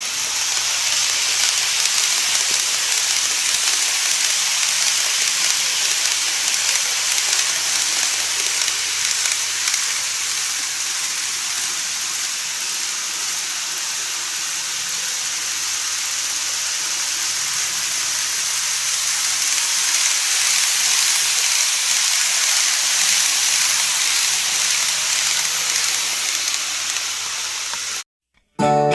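Model train running on its track: a steady hissing rattle of small wheels on rail joints with a faint motor hum, swelling slightly, then cut off abruptly near the end. Music starts just after.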